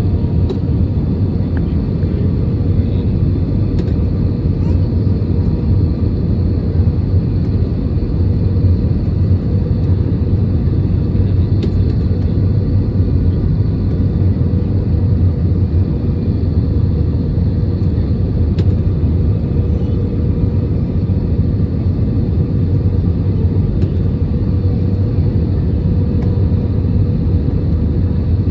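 Steady cabin rumble of an Airbus A320 airliner in flight on approach: engine and airflow noise heard from inside the cabin, with a faint steady hum above the rumble.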